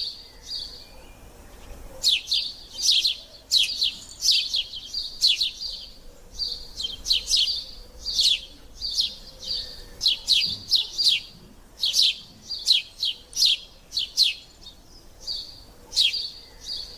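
Sparrows chirping continuously: short, sharp, downward-sliding chirps repeated in quick clusters, with brief steady notes between them.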